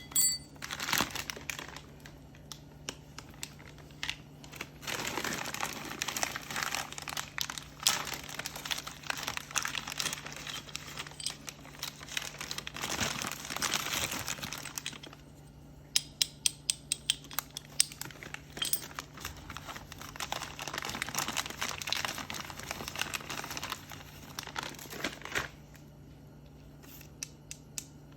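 Plastic packaging crinkling and tearing as parts are unwrapped, in two long stretches, with a quick run of sharp clicks in between.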